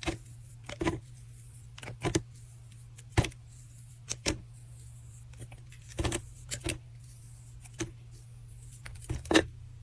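Knife cutting into bars of soap: a series of short, crisp crunches and clicks at uneven spacing, over a steady low hum.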